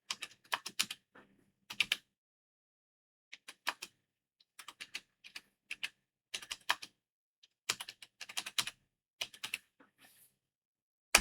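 Computer keyboard being typed on in short bursts of keystrokes with pauses between them, as a terminal command is entered; one louder single click near the end.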